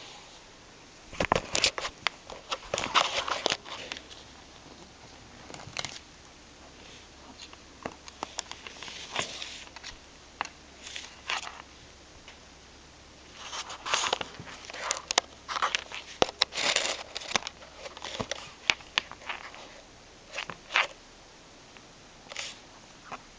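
A cat scrabbling and moving around under a sofa: irregular bursts of scratching and rustling with sharp clicks, separated by quiet pauses.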